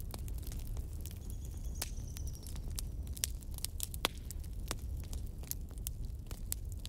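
Fire crackling, with irregular sharp pops and snaps over a steady low rumble. A faint high whistle sounds for about a second near the start.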